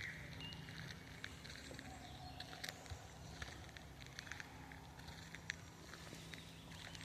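Footsteps crunching over leaf litter and twigs on a forest floor: irregular sharp crackles and snaps over a faint steady background, with a few faint bird chirps near the start.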